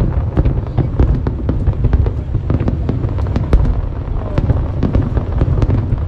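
Fireworks display going off continuously: a dense volley of sharp cracks and bangs, several a second, over a steady low rumble of shell bursts.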